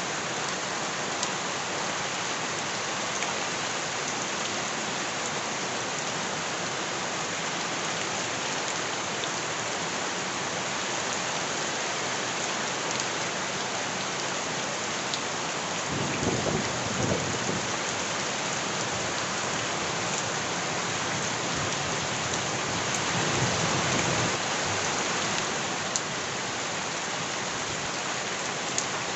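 Steady rain falling, with a few sharp drip ticks. A low rumble of thunder swells about sixteen seconds in and again a few seconds later.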